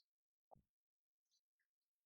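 Near silence, with faint scattered ticks and one short, soft low thump about half a second in.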